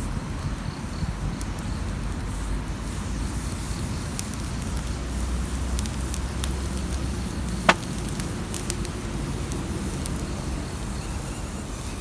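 Wood bonfire crackling, with scattered sharp pops over a low steady rumble; one pop about two-thirds of the way through is much louder than the rest.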